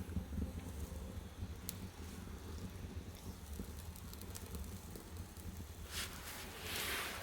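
Firewood burning in the firebox of a wood-fired bath heater: a low steady rumble with scattered crackles and pops, and a louder hissing rush about six seconds in and again near the end.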